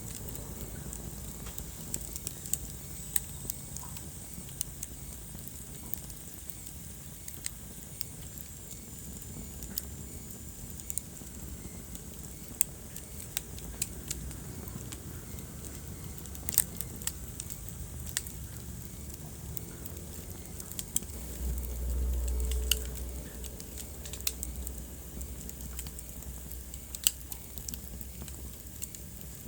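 Wood fire in a fireplace crackling, with frequent sharp pops and snaps over a low, steady rumble of the flames. About three quarters of the way through, the low rumble swells louder for a second or two.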